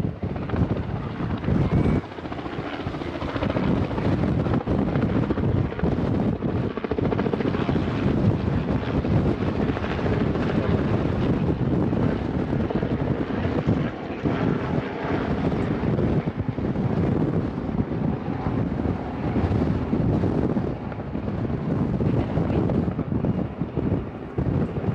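Jet airliner engine noise, a loud steady rush with a faint high whine, mixed with wind buffeting the microphone.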